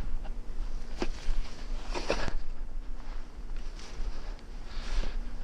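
Packed snow crunching and scraping in a handful of separate strokes about a second apart, over a steady low hum.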